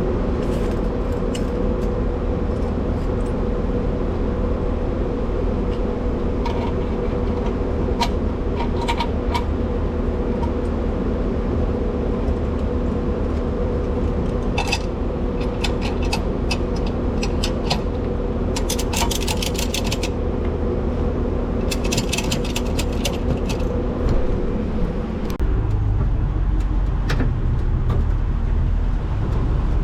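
Tow truck engine running steadily with a low rumble and a held hum, with scattered clicks and two short bursts of jingling a little past the middle. The low rumble steps up and gets louder near the end.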